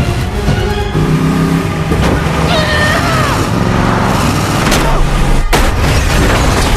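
Car-chase soundtrack of cars driving at speed, with a gliding squeal like tyres about two and a half seconds in and a sudden loud hit about five and a half seconds in.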